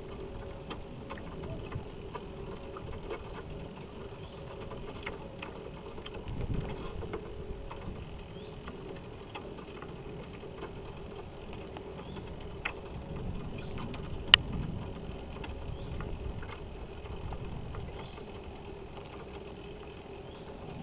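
Water washing against the hull of a North Wind 360 radio-controlled sailboat, picked up by its onboard camera, under a steady low hum. Many small scattered ticks run through it, with one sharp click about 14 seconds in.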